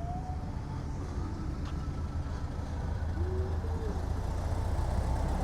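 Low, steady engine rumble of cars moving slowly past, growing gradually louder.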